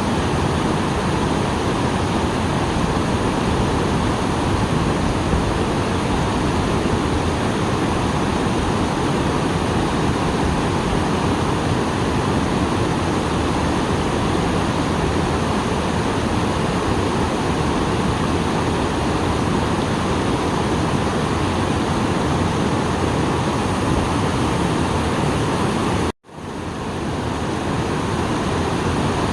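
Small waterfall rushing steadily after rain, a dense even roar of falling water. About 26 seconds in, the sound cuts out abruptly and fades back in over about a second.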